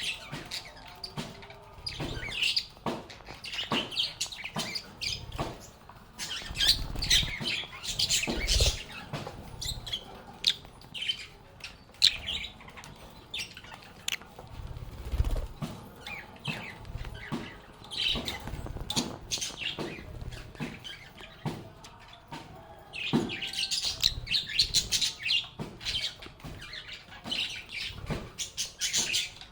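Lovebirds chirping and chattering in repeated bursts of rapid, high-pitched calls, mixed with scattered sharp clicks and a few low thumps.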